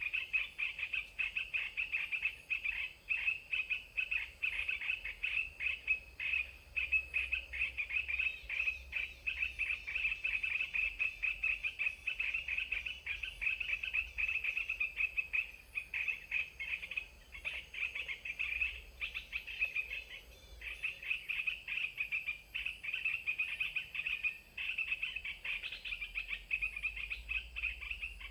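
Birds chattering: a dense, unbroken run of quick, short high notes, pausing briefly about two-thirds of the way through.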